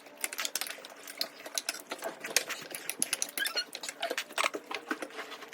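Close-miked eating sounds: rapid, irregular chewing and mouth smacking with small clicks.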